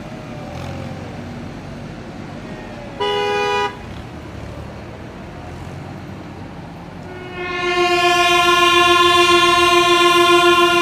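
Vehicle horns sounding over low engine rumble: a short blast about three seconds in, then a long held blast at a slightly different pitch from about seven seconds in.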